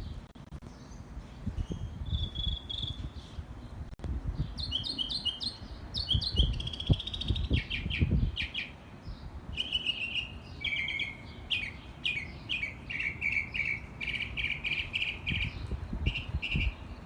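A songbird singing a long, varied song of high chirps, whistles and trills. Each short phrase is repeated several times in quick succession before the bird switches to a new one.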